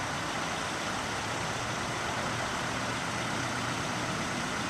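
Steady vehicle engine noise at a constant idle, under an even hiss, with no changes.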